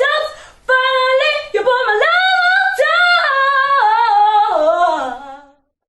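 Solo voice singing unaccompanied, holding long wordless notes, with a run that falls lower and fades out about five seconds in.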